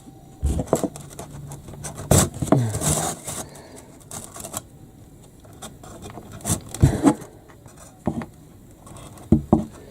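Irregular knocks, taps and rubbing of timber boards and nails being handled and positioned by hand, a dozen or so uneven strikes with no steady hammering rhythm.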